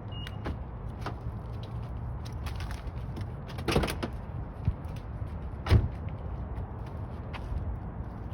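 A few knocks and clicks over a steady low rumble: a longer clatter a little before the middle, and the loudest, a sharp single knock, just after it.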